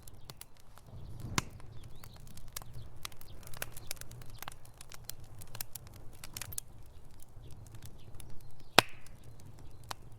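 Wood fire in a fireplace crackling: irregular sharp pops and snaps, one louder pop about nine seconds in, over a low rumble of the burning flames.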